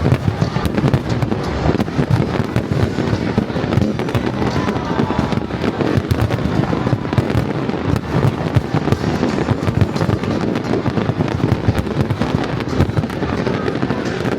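Aerial fireworks going off in a dense, continuous barrage: rapid overlapping bangs and crackling with no pause.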